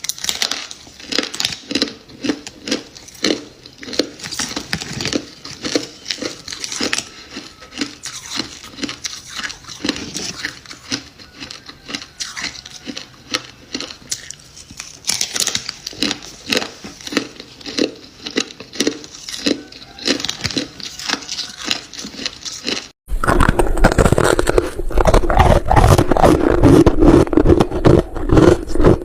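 Close-up crunching and chewing of freezer frost, with rapid crisp bites and crunches a few times a second. About 23 seconds in, after a brief break, a much louder, denser rasping sound takes over.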